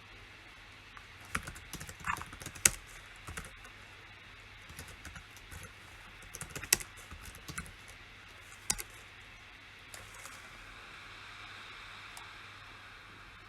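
Typing on a PC keyboard: two short runs of key clicks with pauses between them, then a single key press and a few more taps, and a faint steady hiss near the end.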